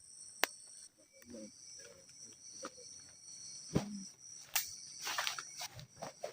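A steady high-pitched drone of forest insects, with irregular clicks, knocks and a brief rustle from things being handled close by; the loudest knock comes just before the four-second mark.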